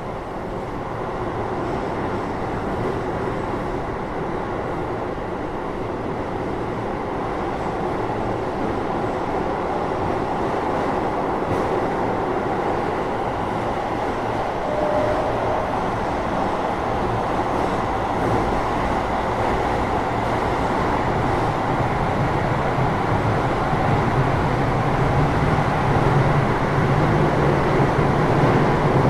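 Keio 8000 series electric train running, heard from inside a motor car above its Hitachi GTO-VVVF main controller: a steady rumble of wheels and motors that grows gradually louder, with a low hum strengthening near the end.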